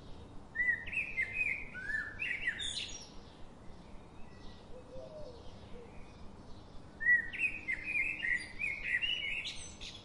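A songbird singing two quick phrases of high chirping notes, the first about half a second in and the second about seven seconds in, each lasting about two and a half seconds, over faint outdoor background noise.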